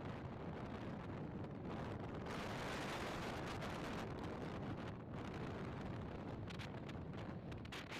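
Strong wind rushing and buffeting the microphone, with a louder gust swelling from about two seconds in and easing off about halfway through.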